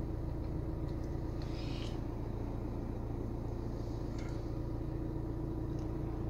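A stationary vehicle's engine idling, heard from inside the cab: a steady, even low hum.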